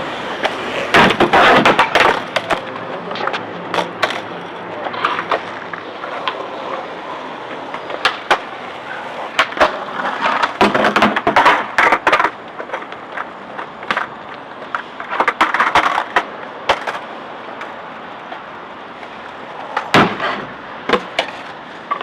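Skateboards rolling and grinding, with the scraping rasp of boards sliding along a grind box and sharp clacks of decks and wheels hitting down. The sound comes in several busy, loud stretches, with a single hard knock near the end.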